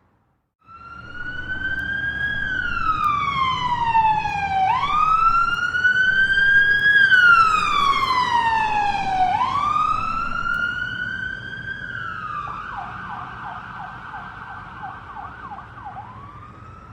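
Fire truck siren wailing in slow rising and falling sweeps over a low engine rumble, switching about three-quarters of the way through to a fast yelp of several warbles a second. It grows louder to a peak around the middle, then fades.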